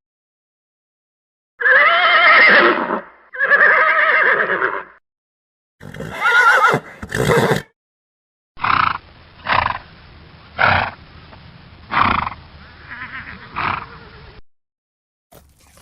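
Horse neighing in separate edited bursts with silent gaps between them: two long whinnies, then two short ones, then a run of about six short calls.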